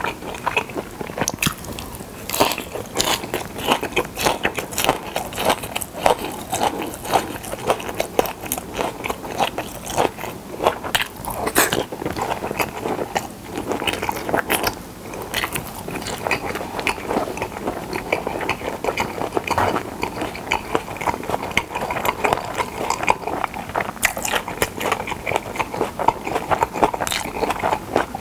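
Close-miked chewing of pyeonyuk (pressed boiled pork) and seasoned dried radish strips: continuous crunching, with small clicks and wet mouth sounds.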